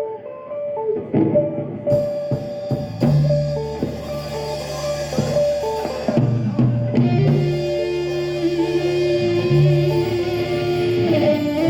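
Live rock band playing: a guitar line with drum kit and bass guitar coming in about two seconds in.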